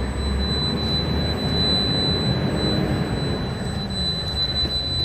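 Truck engine and road noise heard inside the cab, the engine's pitch rising and falling gently, with a steady high-pitched whine over it.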